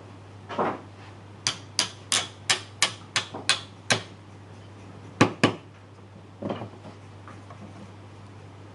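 Wooden parts being knocked together: a quick run of about eight sharp knocks, roughly three a second, then two more close together, with softer thuds before and after. This is the sound of mortise-and-tenon joints of a small wooden piece being tapped home.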